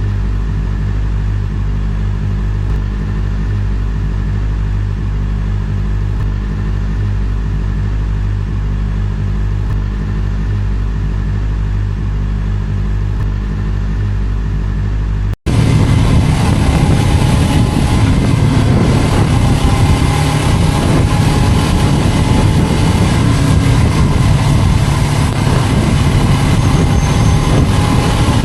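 Vehicle engine and road noise: a steady low drone for the first half, then, after a brief dropout about fifteen seconds in, a louder, rougher engine and road noise.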